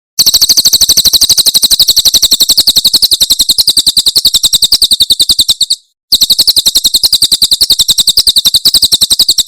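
Cililin bird giving its 'tembakan' call: a rapid, even string of high notes, about ten a second, in two long runs with a short break about halfway through.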